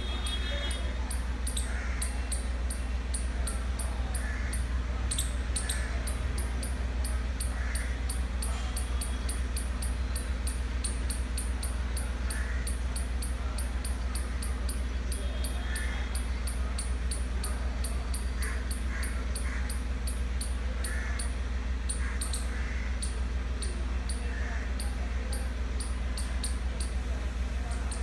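Short, scattered animal calls over a steady low hum, with a fast, regular high ticking throughout.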